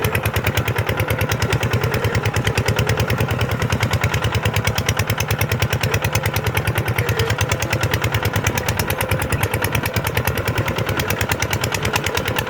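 Kubota tractor's diesel engine running steadily, with a rapid, even firing beat.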